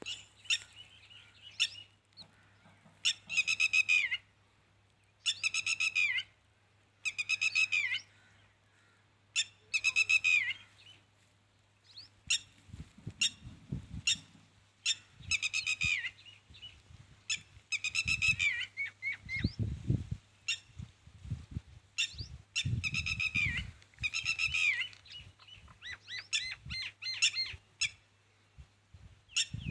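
A bird calling over and over, each call about a second long and dropping in pitch at its end, repeated every two seconds or so. Low thuds and rumbles come in during the second half.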